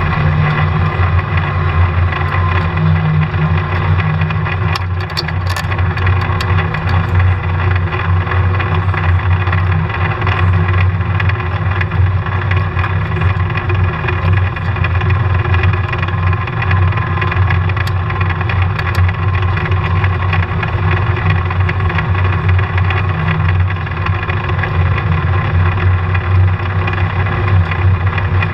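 Polaris RZR side-by-side running while being ridden: a steady, low engine drone with little change in speed, and a few faint ticks about five seconds in. This is the riding noise that the owner is trying to show; its cause is not named.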